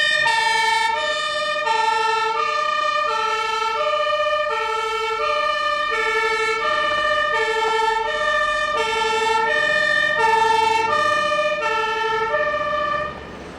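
German emergency vehicle's two-tone siren (Martinshorn) sounding loudly, stepping steadily back and forth between a low and a high note. It cuts off near the end.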